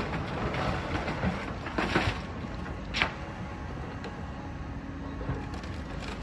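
Heavy demolition machinery running steadily while building material breaks and falls, with sharp cracks and crashes at the start and about two and three seconds in.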